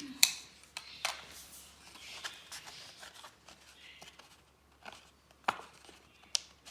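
Paper being handled with a scattering of sharp clicks and taps, about seven in all, the loudest just after the start.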